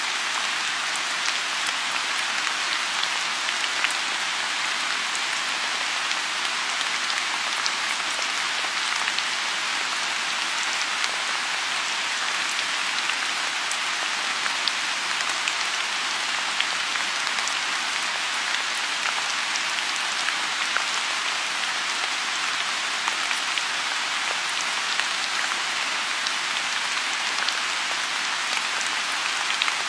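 Steady rain falling on a lotus pond: an even, dense hiss with many scattered sharp drop ticks.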